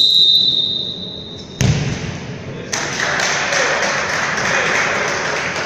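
A referee's whistle blown in one long steady blast, cut off by a sharp thud of a ball strike about a second and a half in, followed by a din of shouting voices echoing in the hall.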